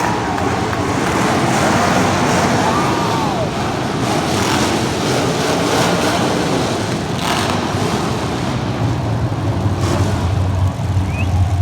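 Demolition derby car engines running and revving in a loud, steady mix, with a strong low engine hum building in the last few seconds.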